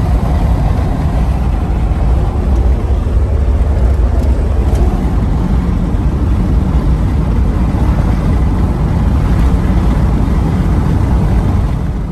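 1989 Dodge Ramcharger under way: a steady, loud rumble of engine and road noise from inside the cab, dropping off near the end.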